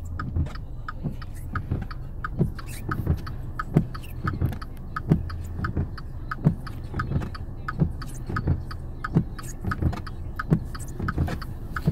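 Inside a car driving on a snowy road: a steady low engine and road rumble, with frequent small clicks and knocks a few times a second.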